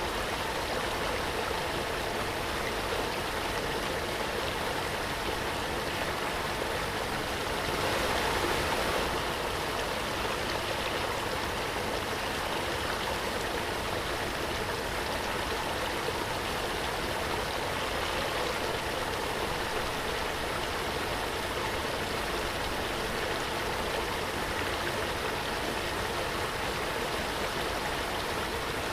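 Waterfall: a steady, continuous rush of falling water, swelling slightly about eight seconds in.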